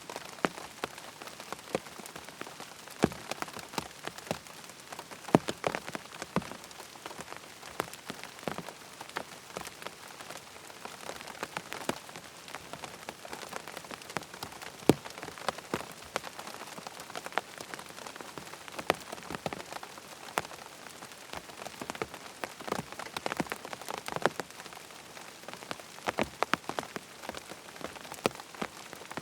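Steady rain falling on a tent, a constant hiss with many separate drops tapping sharply on the fabric at irregular intervals.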